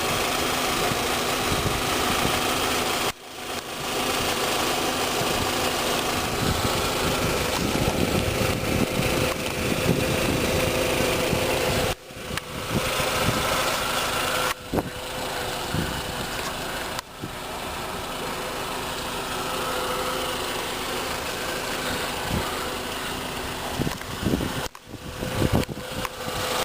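Volkswagen Jetta's 2.0-liter four-cylinder engine idling steadily, heard with the hood open. The sound drops out briefly a few times.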